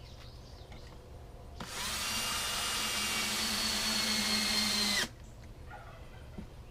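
Electric drill running in one steady burst of about three and a half seconds, with a low hum and a high whine, starting about one and a half seconds in and cutting off suddenly.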